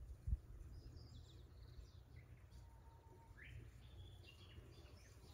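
Faint birdsong: scattered short chirps and whistles from small birds, busier in the second half, over a low rumble. A single soft thump just after the start.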